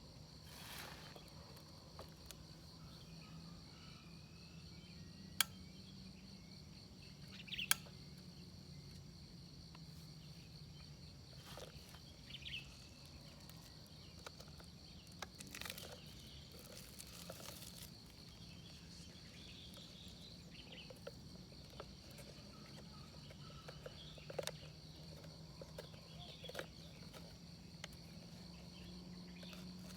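Insects trilling steadily in a high, even chirr, with a few sharp clicks and brief rustling noises over it.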